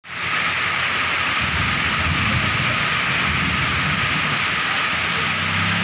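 Heavy rain pouring onto a paved walkway and trees, a dense steady hiss. A low engine hum comes in near the end.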